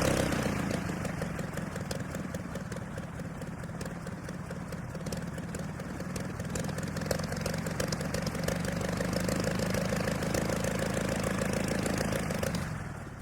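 WWI Curtiss JN-4 Jenny biplane engine idling steadily after being throttled back, swelling a little, then dying away near the end as the engine is shut off.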